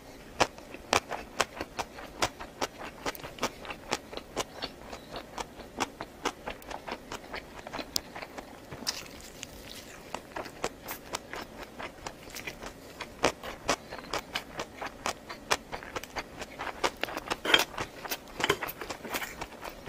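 Close-miked eating: chewing with a steady run of sharp wet mouth clicks, about two or three a second, pausing briefly about nine seconds in.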